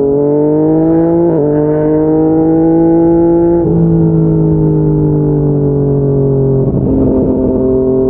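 Yamaha MT-09's inline-three engine through an aftermarket slip-on exhaust, pulling hard under throttle: the pitch climbs, drops briefly with a quick upshift about a second in, climbs again, then eases off and sinks slowly from about halfway through, with another gear change near the end.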